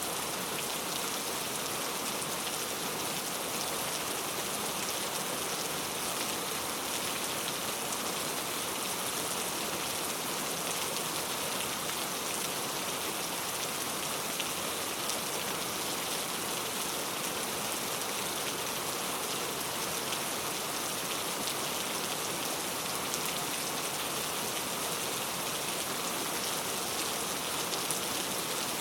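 Steady rain falling, a dense even hiss with many fine drop hits.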